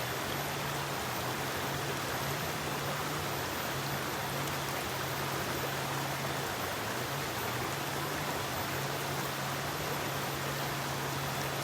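A forest river flowing steadily over rocks: a constant, even rushing of water with no breaks.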